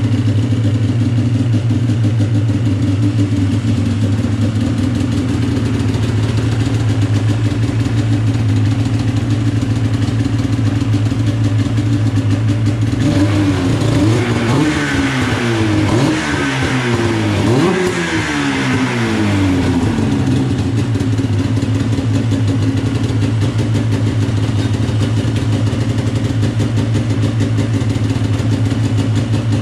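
Freshly rebuilt 600 CFI two-stroke twin of a 2011 Polaris Rush snowmobile running steadily at idle on its first run after the rebuild. From about the middle of the clip for some seven seconds it is revved up and down several times, then it settles back to idle.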